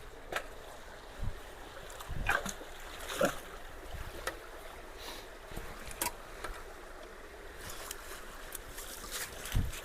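Creek water running into a partly clogged culvert, with splashes and knocks now and then as debris is pulled out of the water; the loudest come about two and three seconds in and again near the end.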